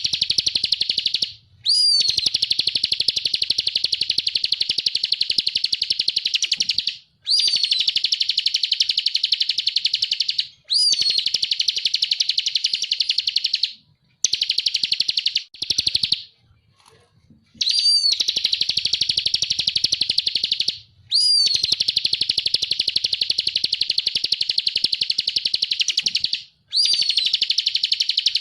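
Ciblek (prinia) singing in the rapid buzzing 'ngebren' style: long, dense trills, each opening with a short up-and-down note, repeated with brief breaks and a longer pause about halfway through.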